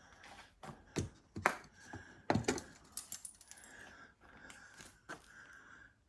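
Footsteps over debris: irregular clicks, knocks and light crunches, with the loudest knocks about a second in and again about two and a half seconds in.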